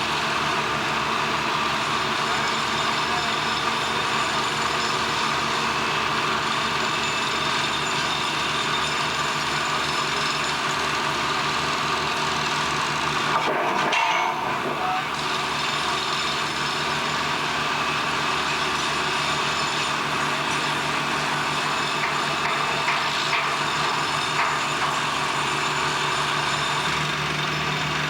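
Steady mechanical noise of machinery running, with a fast regular ticking and a steady hum underneath, and a brief louder burst about halfway through.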